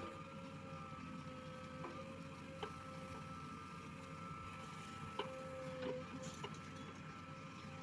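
JCB 3DX Plus backhoe loader working: diesel engine running with a steady whine over it, and a few sharp knocks, about four, scattered through.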